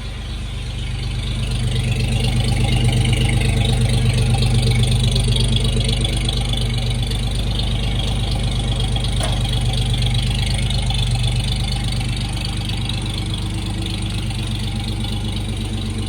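The rebuilt original straight-six engine of a 1955 Chevrolet 3100 pickup idling steadily, a little louder for several seconds in the middle.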